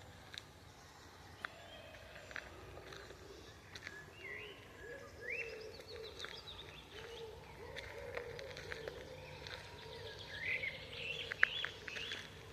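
Several birds singing and calling in a forest, with short chirps, quick rising whistled notes and a repeated lower call, over a faint steady hiss. A few sharp clicks stand out, the loudest about 11 seconds in.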